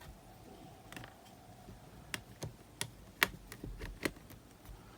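Small screwdriver clicking and tapping against tiny screws as the main board screws of a cassette player are undone: a few sharp, irregular clicks, loudest a little after three seconds in.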